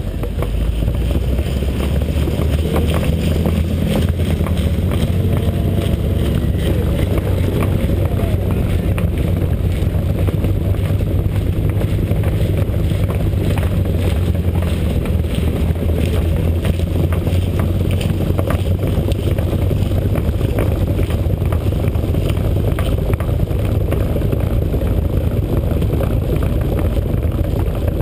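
BMW E36 328i's straight-six running at low, steady revs as the car rolls slowly, heard from a camera mounted on the car's side, with wind rumbling over the microphone.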